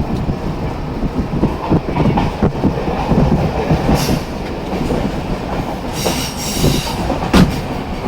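Passenger train running: a steady rumble with scattered clanks and knocks from the wheels and carriage. A brief high squeal comes about six seconds in, and a sharp bang follows just after seven.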